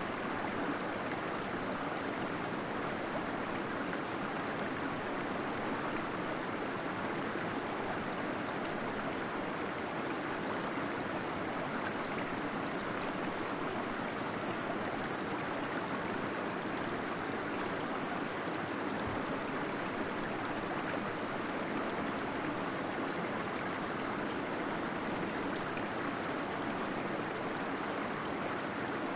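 Small waterfall flowing steadily into a pool inside a cave, an even rush of water with some gurgling.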